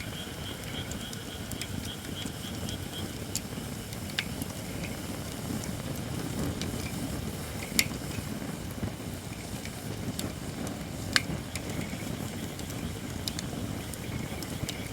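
Wood fire of Japanese white oak logs burning with a steady low rush of flame and occasional sharp crackling pops, the loudest about eight and eleven seconds in. The oak is not yet fully seasoned.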